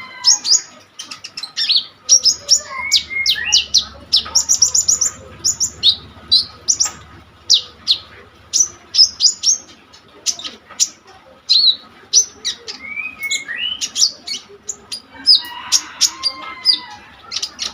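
A konin songbird in full song: a fast, continuous string of short, sharp, high chirps, broken now and then by slurred lower notes.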